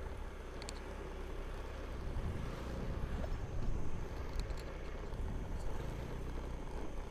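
Motor scooter riding along: a steady engine hum and road rumble with wind on the microphone.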